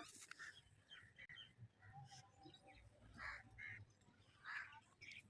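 Near silence with faint, scattered short bird calls in the background.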